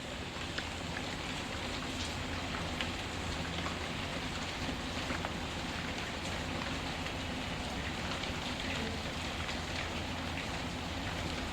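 Steady rain falling, with small sharp pops and crackles of a wood fire scattered through it.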